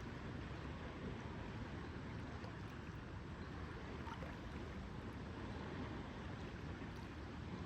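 Lakeside water ambience: a steady, even wash of gently lapping lake water, heaviest in the low end, with a few faint small ticks.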